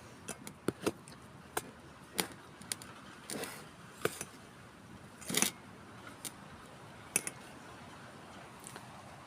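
Metal kitchen utensils clinking and scraping against a steel vessel: a dozen or so irregular sharp clinks with a couple of short scrapes, thinning out toward the end.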